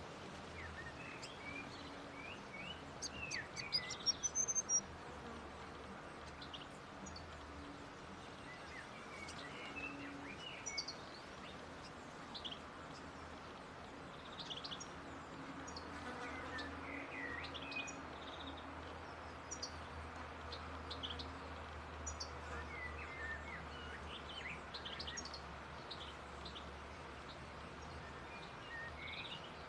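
Grey fantail calling: short, high, squeaky chirps and brief twittering phrases scattered through the stretch, loudest in a quick cluster about four seconds in, over a steady low hum.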